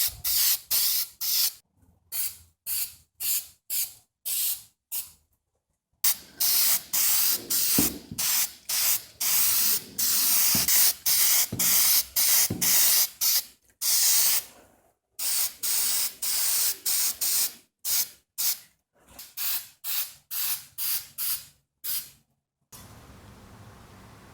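Short bursts of spray hissing from a nozzle, about two a second, stopping briefly a few times. Near the end it gives way to a faint steady hiss.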